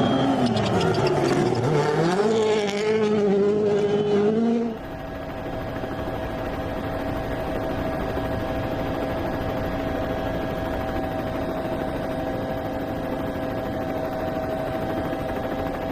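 Rally car engine revving, its pitch dropping and climbing through gear changes. About five seconds in it switches abruptly to a steady, even engine drone held at constant pitch.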